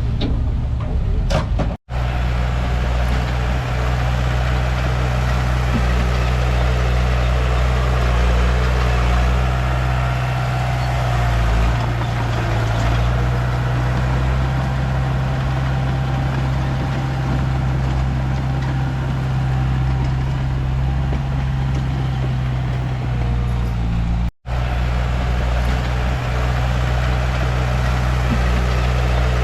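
Komatsu D31P bulldozer's diesel engine running steadily under work. The sound drops out briefly twice, about two seconds in and near the end.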